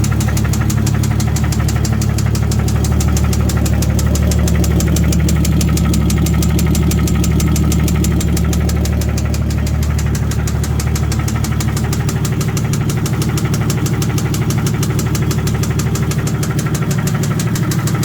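Turbocharged 1.5JZ engine (2JZ-GE block with 1JZ head) in a Miata, running steadily with a fast, regular knock: rod knock.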